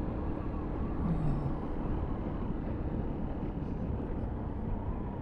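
Sinnis Terrain 125cc motorbike engine running steadily while riding, mixed with wind and road noise.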